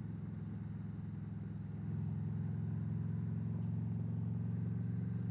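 Harley-Davidson Road Glide's V-twin engine running steadily through aftermarket pipes while riding, with road and wind noise; it gets a little louder about two seconds in.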